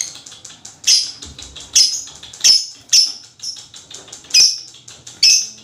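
Lovebird ngekek: a fast, continuous high-pitched chatter with about six louder shrill calls spread through it.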